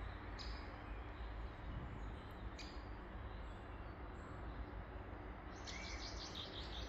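Birds calling among trees over a steady low background rumble: a couple of short high calls in the first few seconds, then a run of quick chirps from about five and a half seconds in.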